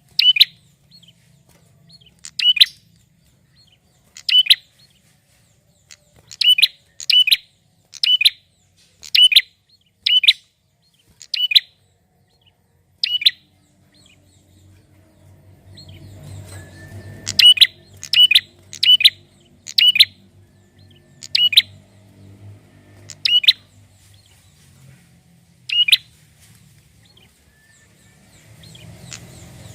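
Male prenjak (prinia) singing: a long run of sharp, high chirps, singly or in quick pairs about one a second, breaking off briefly about halfway through before starting again. A faint low hum lies underneath in the middle.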